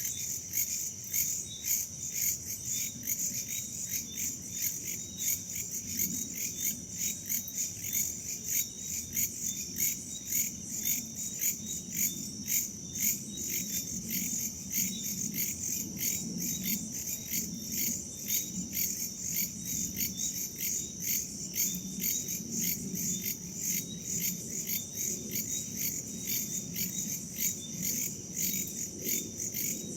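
Crickets chirping steadily in a rapid, even pulse of about three chirps a second, with other insects and a soft low rush of wind underneath.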